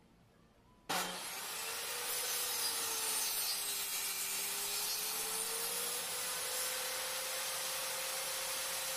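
A woodworking power tool starting abruptly about a second in and then running steadily with a dense, hissing cutting noise on wood and a steady hum underneath.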